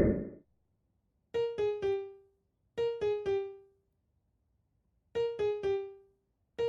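Background music: a piano-like keyboard plays a short three-note falling figure, repeated four times with short silences between the groups. A brief rushing noise fades out in the first half second.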